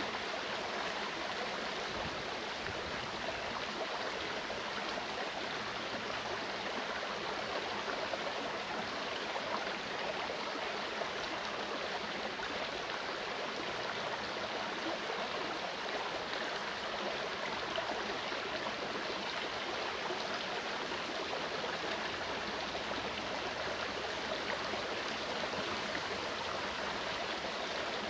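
Clear mountain stream flowing, a steady, even rush of water.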